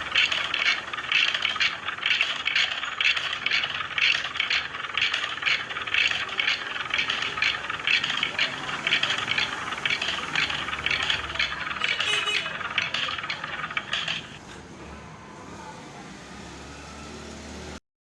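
Rapid, irregular rattling that stops about fourteen seconds in, leaving a quieter steady hum.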